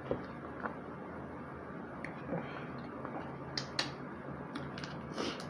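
Eating sounds: scattered short clicks and wet smacks of chewing and handling food, over a steady low hum.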